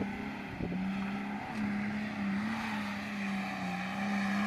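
Nissan 4x4's engine held at high, steady revs under load as it climbs a sand and rock slope, the pitch wavering slightly as it goes.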